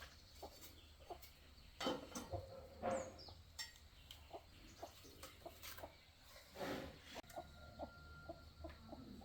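Chickens clucking faintly in short, scattered calls, with a few louder sudden sounds about two, three and seven seconds in.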